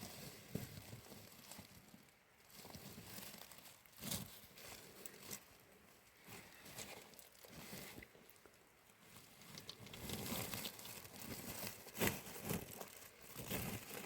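Irregular rustling and crinkling handling noises, with scattered sharp clicks and knocks that are loudest about four seconds in and again near the end.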